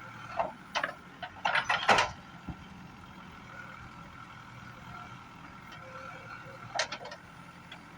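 CAT 424B backhoe loader's diesel engine running steadily, with a cluster of short, sharp sounds in the first two seconds and one more near the end.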